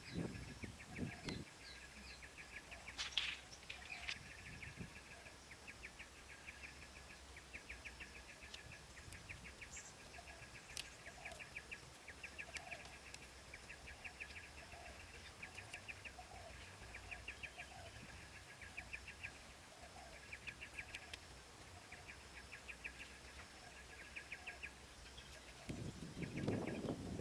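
Faint outdoor wildlife chorus: rapid high chirps repeated in short runs, with softer lower calls between them. A few low knocks come at the start, and louder rustling or handling noise comes near the end.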